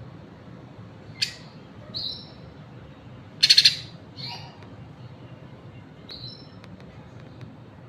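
Green leafbird (cucak ijo) giving a handful of short, sharp calls spaced a second or more apart. The loudest is a harsh burst about three and a half seconds in. A steady low hum runs underneath.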